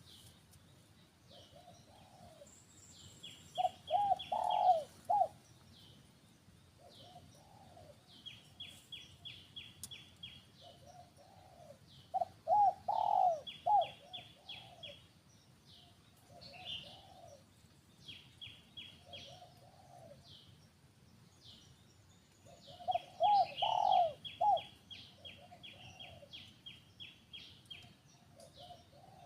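Wild birds calling: a low cooing phrase comes three times, about ten seconds apart, and is the loudest thing, while rapid high chirping trills repeat throughout.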